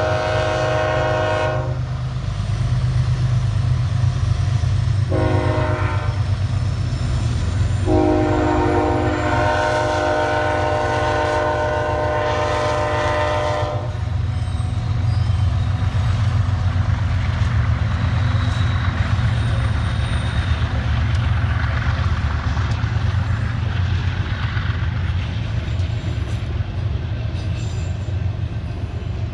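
Freight train's diesel locomotive horn sounding a multi-note chord: the end of a long blast, a short blast about five seconds in, then a long blast of about six seconds, the closing long-short-long of the grade-crossing signal. Under and after it, the locomotive engines rumble steadily and the wheels clack on the rails as the train rolls by.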